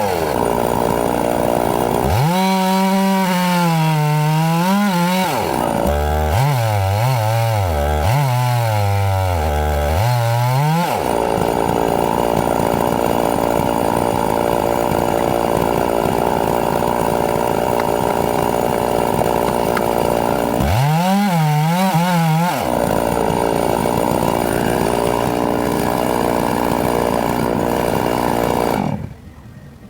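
Chainsaw engine running at high revs while cutting wood, its pitch dipping and rising several times between long steady stretches; the sound cuts off abruptly near the end.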